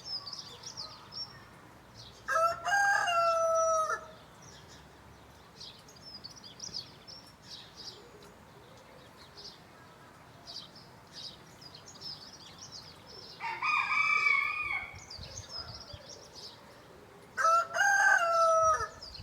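Rooster crowing three times, each crow about a second and a half long, the first about two seconds in and the last two near the end. Small birds chirp in between.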